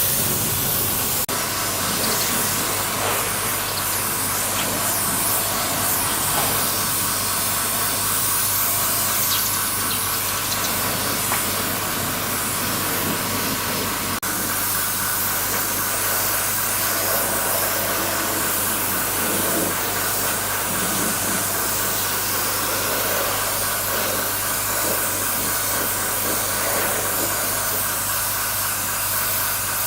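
Steady hissing noise with a constant low hum underneath, running unbroken at an even level.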